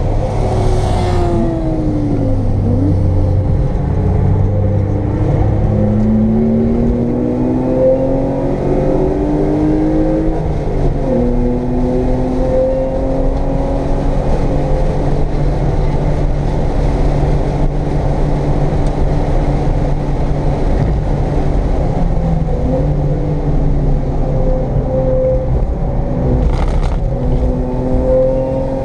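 Straight-six engine of a 1995 BMW M3, heard from inside the cabin, revving hard and easing off at speed. Its pitch climbs steadily, drops sharply about eleven seconds in, holds high for several seconds and climbs again near the end, over steady road and wind noise.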